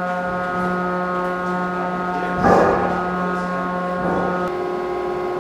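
Steady hum of shipboard machinery aboard a Nimitz-class aircraft carrier, holding several constant tones at once, with a brief rushing burst about halfway through. The lowest tone drops out near the end.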